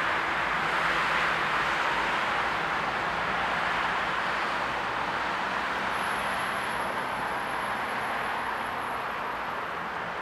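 Passenger train running away from the station, its rolling noise a steady hiss that slowly fades.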